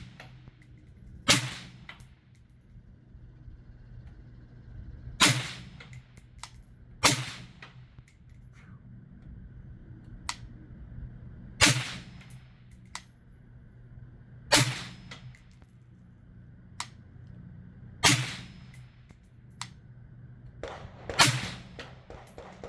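Seven suppressed 5.56 rifle shots from an AR-style rifle fitted with a B&T VERS36 titanium suppressor, fired slowly one at a time a few seconds apart, each a sharp crack with a short ringing tail.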